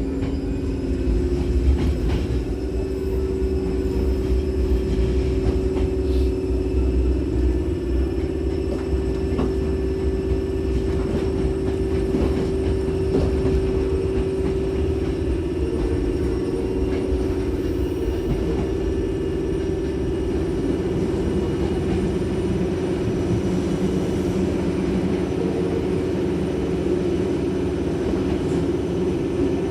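Hankyu 6000-series electric train running, heard from inside the car: a steady low hum with the rumble of the wheels on the rails.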